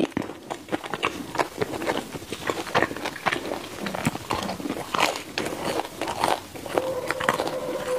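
Close-miked biting and chewing of a home-baked mochi bun with a crispy crust, heard as crackly crunches and many small wet mouth clicks as the chewy dough is worked.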